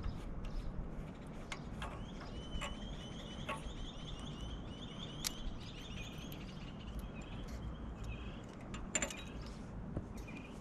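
A bird chirping rapidly for a few seconds, a quick run of high, slightly falling notes, with scattered clicks and taps over a low steady rumble.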